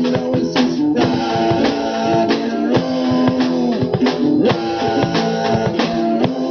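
Live rock band playing an instrumental passage: strummed guitar chords held over a drum kit beating steadily, with no singing.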